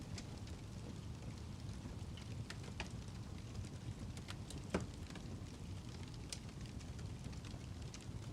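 Wood fire crackling: scattered sharp pops and snaps over a steady low rumble, with one louder pop about five seconds in.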